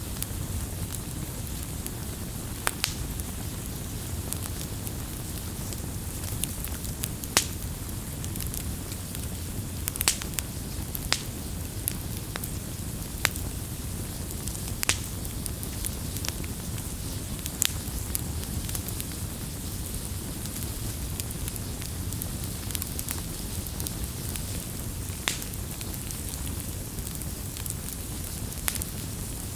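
Wood bonfire crackling: a steady low rumble and hiss of the flames, with sharp pops every second or so.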